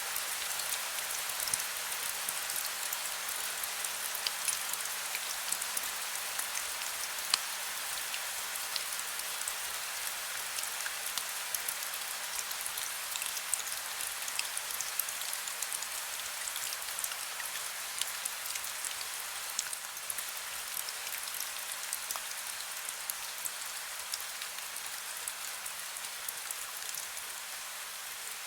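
Heavy rain falling steadily: a dense hiss of rain with many sharp, close drop impacts pattering on a surface.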